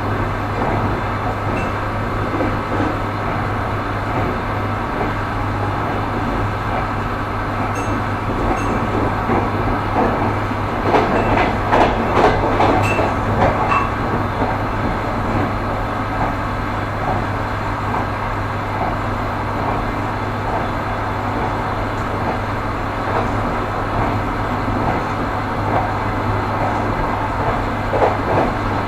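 Train wheels running over rail joints: a continuous rumble with a steady low hum, and a run of louder clattering knocks about halfway through and again near the end.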